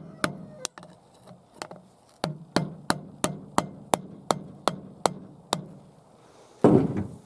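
A run of evenly spaced sharp taps, about three a second, for some five seconds, then a short louder clatter near the end.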